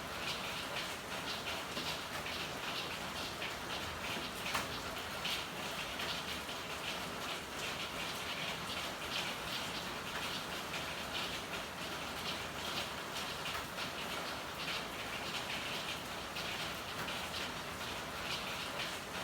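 Steady rain with a thick patter of irregular close drops.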